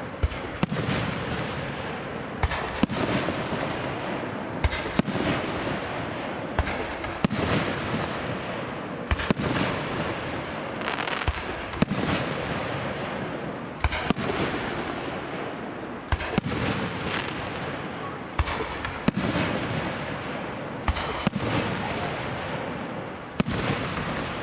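Aerial firework shells bursting in steady succession, a sharp bang about every two seconds, each followed by a long hiss that fades away.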